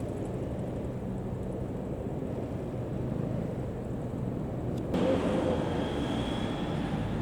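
Vehicle engine running with a steady low rumble; about five seconds in a louder vehicle sound comes in, with a thin high whine over it.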